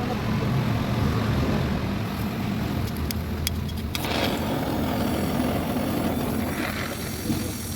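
An engine running steadily at idle, with a few sharp clicks about three seconds in and a brief burst of noise about a second later.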